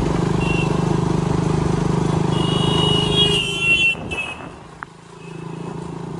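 Motorcycle engine running steadily on the move, with a high horn-like tone held for about a second and a half partway through. Near the end the engine noise drops away briefly, then picks up again.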